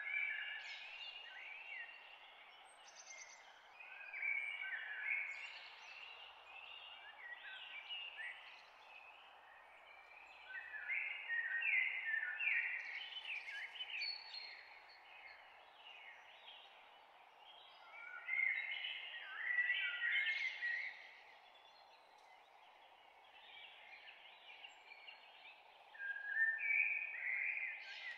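Birds chirping in short spells every few seconds over a steady hiss.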